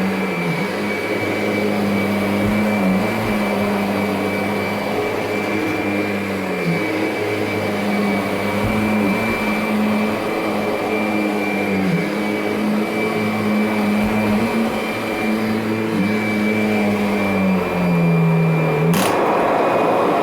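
Kirby G10 Sentria upright vacuum running on a rug with its Tech Drive power assist engaged. The motor hum dips briefly in pitch every few seconds. Near the end a sharp click comes, then the motor's hum stops and the noise dies away.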